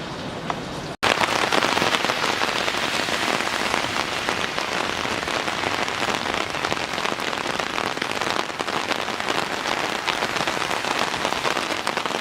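Small round hail (snow hail) pelting down on hard surfaces: a dense, steady pattering of countless tiny ticks. It starts abruptly about a second in after a brief drop.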